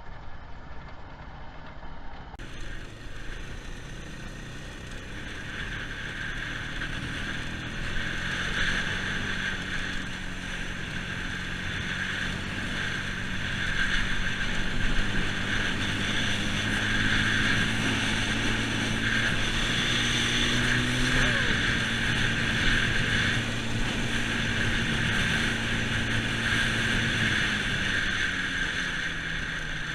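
2001 Yamaha Bear Tracker ATV's single-cylinder four-stroke engine running while riding, its pitch climbing slowly and then holding steady, rising a little about two-thirds of the way through and dropping off near the end. A steady hiss runs along with the engine throughout.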